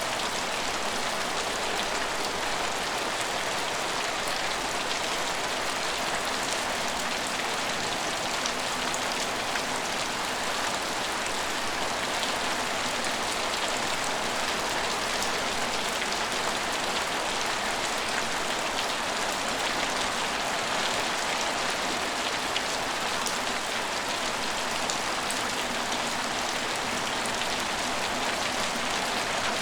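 Steady rain falling on a station, an even hiss of drops with faint fine pattering and no change in strength.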